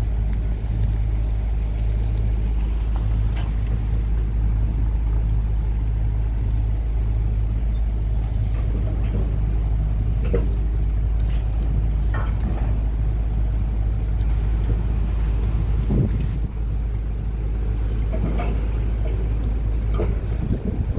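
Heavy diesel engine of a pile-driving rig running steadily, with a few faint, irregular knocks. There is no regular hammer pounding.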